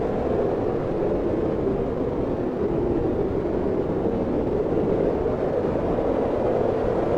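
Wind blowing steadily, a low rushing noise that swells and eases slowly.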